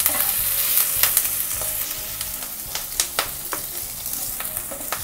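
Ghee sizzling in a nonstick kadai as chopped ginger and green chillies fry, with a steady hiss. A wooden spatula stirs through it, scraping and knocking against the pan in a handful of sharp clicks.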